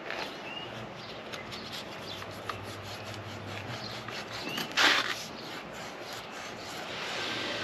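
Metal rubbing and scraping as a motorcycle clip-on handlebar is handled and worked into place, with one louder clack about five seconds in.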